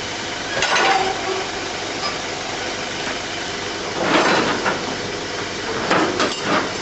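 An engine idling steadily, with louder bursts of noise about a second in, around four seconds in and around six seconds in.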